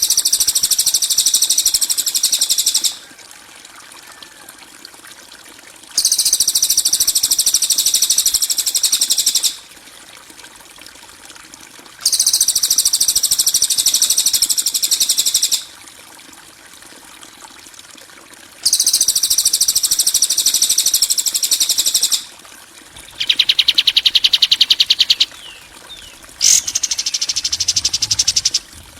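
Songbird 'kasaran' calls: loud, very fast, harsh chattering trills of about three seconds each, repeated with pauses of about three seconds, the kind of rough call used as a tutoring track for songbirds. The first four trills are high-pitched. The last two, near the end, are lower and buzzier. A faint trickle runs under them.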